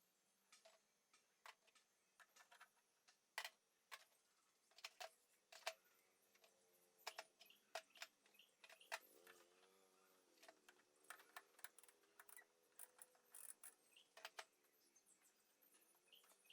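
Faint, irregular light clicks and taps, a few to several a second, with a faint wavering tone in the middle and again near the end.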